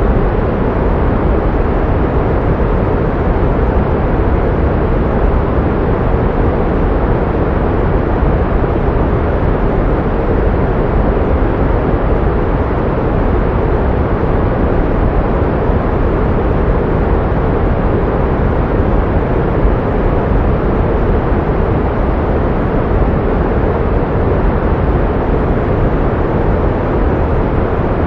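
Steady pink noise: an even, unbroken hiss, heavier in the low end and softer toward the top.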